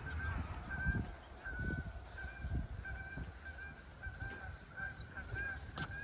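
A bird calling over and over, a short steady high note repeated about twice a second, over low thuds of walking steps.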